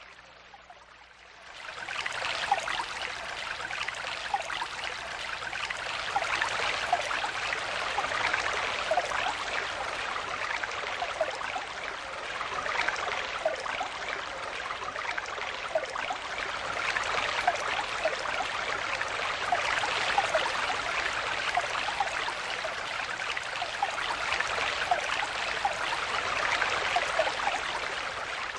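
Stream water flowing and babbling, a steady rush dotted with many small gurgles. It swells up suddenly about a second and a half in, after a quieter start.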